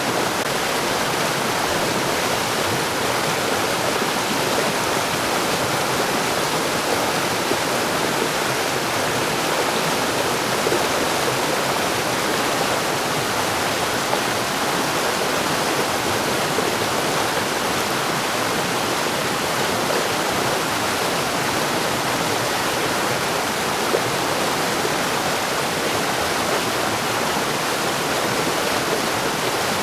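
Mountain stream rushing over rocks: a steady, even wash of water with no change in level.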